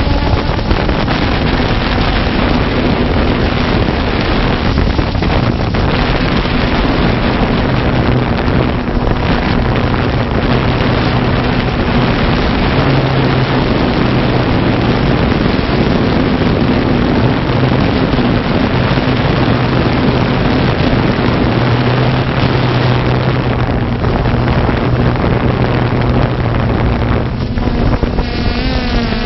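Multirotor drone's propellers whirring steadily with a low hum that shifts slightly in pitch, under heavy wind rush on the onboard microphone.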